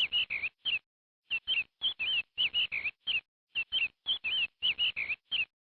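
Chicken chicks peeping: a run of short, high chirps, often in quick pairs and bending up and down in pitch, stopping shortly before the end.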